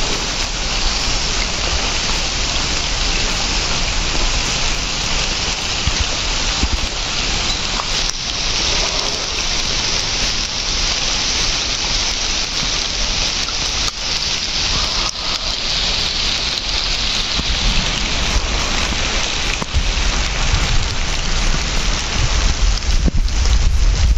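Heavy rain falling steadily, a dense even hiss, with a low rumble growing stronger over the last few seconds.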